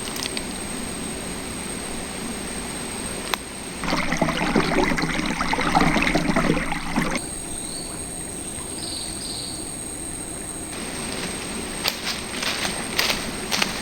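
Outdoor ambience of a shallow river: a steady hiss of flowing water, broken by edit cuts, with a louder stretch of rustling and clicking about four seconds in, a few short high chirps in the middle, and scattered clicks near the end.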